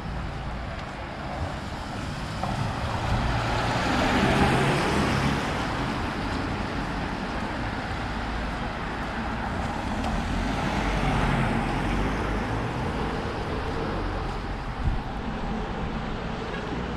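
Road traffic: vehicles pass one after another, the sound swelling and fading away twice, about four seconds in and again around eleven seconds.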